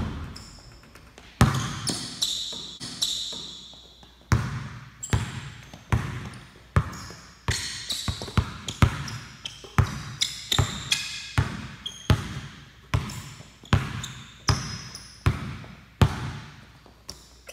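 Basketball dribbled on a hardwood gym floor, about one bounce a second, each bounce ringing in the large hall, with sneakers squeaking on the wood now and then. It opens with a sharp bang as a jump shot hits the rim.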